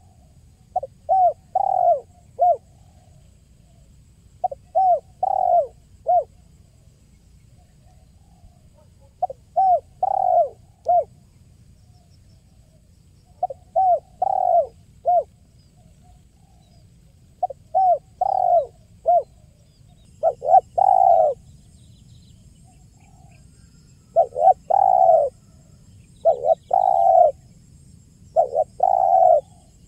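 Spotted dove (tekukur) cooing in repeated phrases of three or four short coos. The phrases come roughly every four seconds at first. In the second half they come faster and with longer notes.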